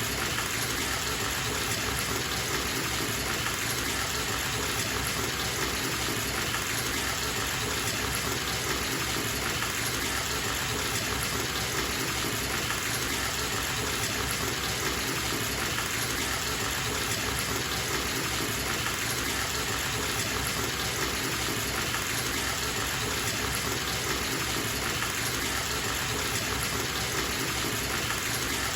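Bathtub tap running steadily into the tub, a constant gush of water filling the bath.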